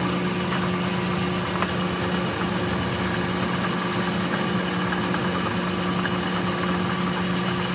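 A machine motor running steadily with a constant hum.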